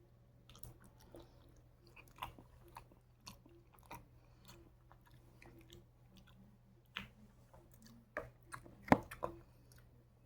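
Close-up wet chewing of honeycomb: soft sticky smacks and small clicks from the mouth working the wax comb, the loudest about nine seconds in.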